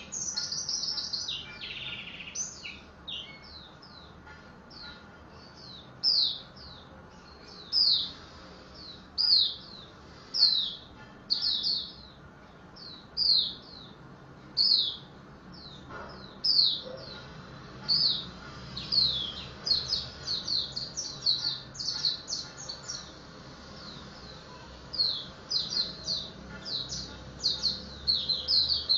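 Pleci (white-eye) chirping: short high notes, each falling in pitch. At first they come singly, about one every second and a half. Later they run together into quick bursts of chirps.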